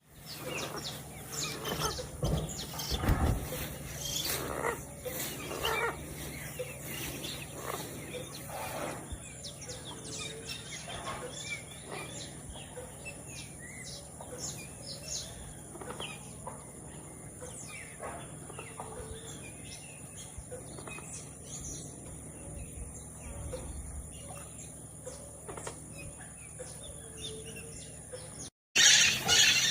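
Birds chirping and calling in short, scattered notes over a steady low background hum. Near the end the sound cuts out briefly and a louder, noisier passage begins.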